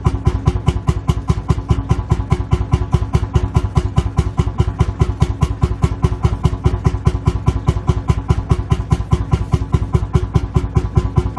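Lanz Bulldog's single-cylinder two-stroke hot-bulb engine idling with its steady, quick, even beat of firing strokes.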